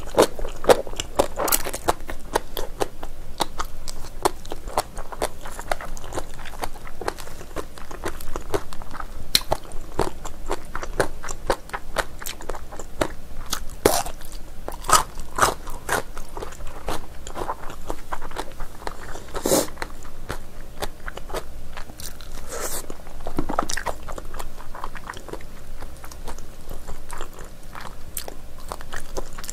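Close-miked mouth chewing of chewy spicy braised beef trotter: a steady run of short smacks and clicks, with one louder smack about two-thirds of the way through.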